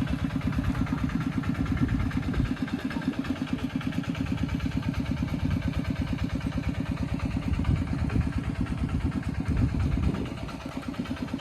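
Tractor diesel engine running steadily with an even, rapid chugging beat while hauling a load of rice. It gets louder briefly near the end, then eases off.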